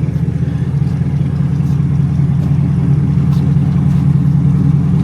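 A 2020 Chevrolet Corvette's V8 idling steadily, a deep even drone through its aftermarket exhaust with the muffler removed.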